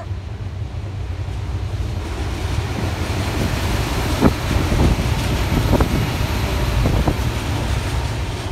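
Adelaide Metro 3000-class diesel railcar set passing close by: a rumble and hiss that builds to a peak about seven seconds in, with several sharp clacks from the wheels in the middle of the pass. Wind buffets the microphone throughout.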